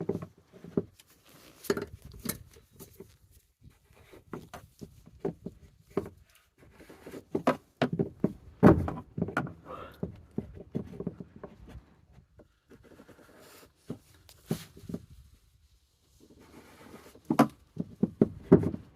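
Fuel pump locking ring being turned tight with a tool: irregular clicks, knocks and scraping of the tool on the ring, with a cluster of louder knocks about halfway through and again near the end.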